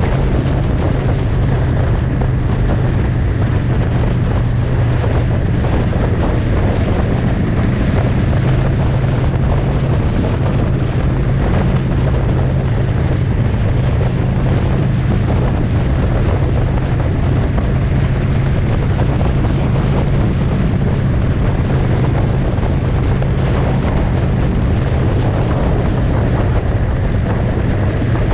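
Motorcycle engine running at a steady cruise, a constant low drone under heavy wind rush on the microphone.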